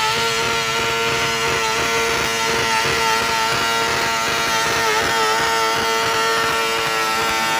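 Modified pulling tractor's engine running hard at steady high revs, its pitch wavering briefly a couple of times.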